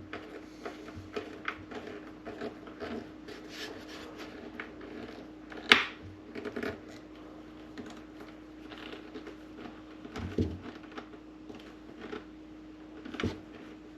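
Irregular small clicks and scrapes of a screwdriver working screws into a coffee maker's plastic bottom cover, with a sharp click about six seconds in and a couple of duller knocks later, over a steady low hum.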